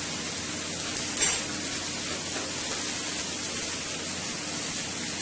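Sliced onions and sweet peppers sizzling steadily in a skillet as they sauté, with a short louder burst of noise about a second in.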